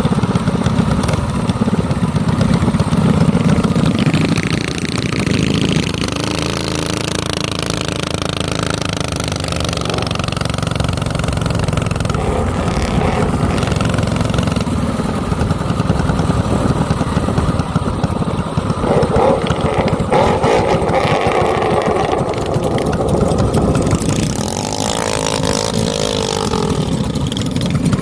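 Small minibike engine running, its pitch rising and falling several times as it is revved up and eased off.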